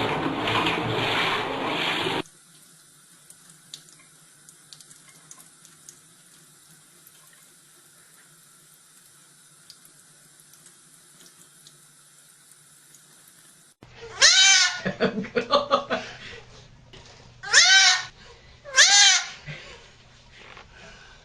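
A cat meowing three times, loud calls that rise and then fall in pitch, about halfway through and near the end. Before them come a couple of seconds of steady rushing noise like running water, then a long quiet stretch with faint clicks.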